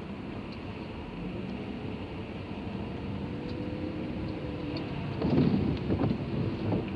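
Car cabin noise: a steady low engine and road hum, with a louder rumble for about a second and a half starting about five seconds in.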